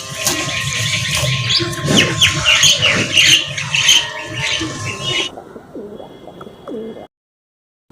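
Many birds calling together, a dense chatter of short, high, downward-sliding chirps that stops abruptly about five seconds in; after a quieter stretch the sound drops out completely near the end.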